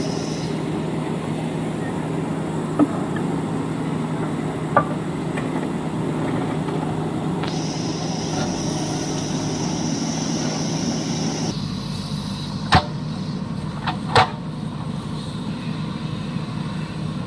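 JCB backhoe loader's diesel engine running steadily, with a few sharp metallic knocks.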